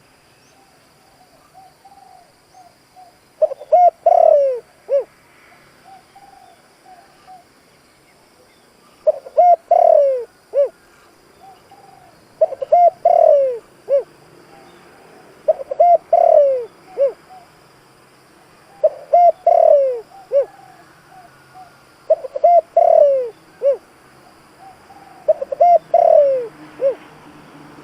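A spotted dove cooing its full song: seven loud phrases of several low hooting notes each, coming about every three seconds after a longer pause near the start, with softer short coos in between. It is a trained decoy dove's call, used to excite and lure wild doves.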